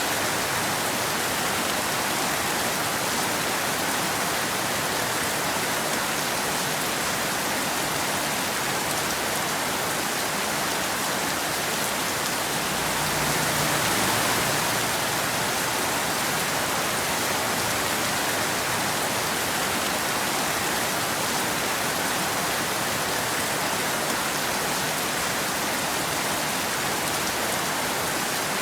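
Steady rain falling on a road and trees, an even hiss that swells slightly about halfway through.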